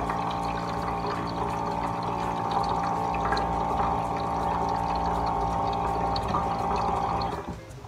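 Water pouring steadily with a hum, stopping about seven and a half seconds in.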